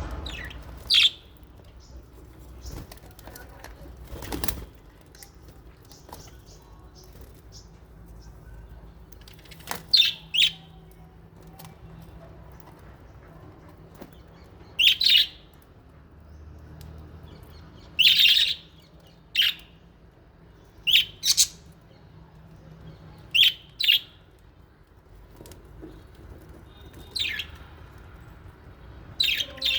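Small pet parrots in an aviary giving short, sharp chirps every few seconds, often two in quick succession.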